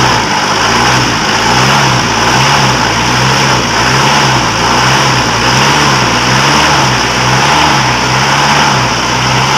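Mitsubishi 4D56 diesel engine idling steadily, its low hum rising and falling about one and a half times a second.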